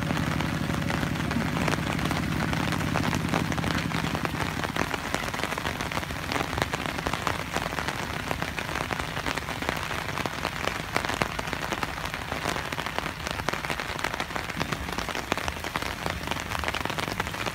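Steady rain falling on grass and puddles, an even hiss with scattered drop ticks. For the first few seconds the low, even chug of a two-wheel hand tractor's engine runs underneath and fades away.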